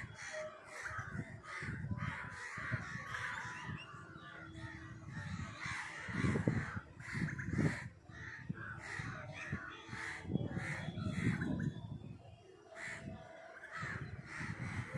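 A flock of crows cawing, many short calls overlapping without a break, with bursts of low rumble a few times, loudest about six to eight seconds in.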